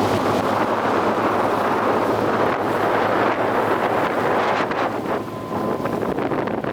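Heavy wind buffeting the microphone aboard a rigid inflatable boat, a dense steady rush with the boat engine's hum fading out at the very start.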